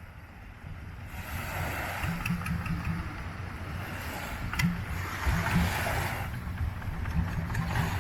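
An engine running steadily, its low rumble pulsing in level, with hissing wind or water noise rising and falling over it.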